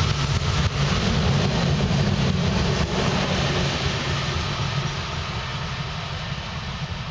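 Freight train of tank cars rolling past on the rails: a steady rolling noise of steel wheels on track with a few sharp clicks, fading from about five seconds in as the last car passes and the train moves away.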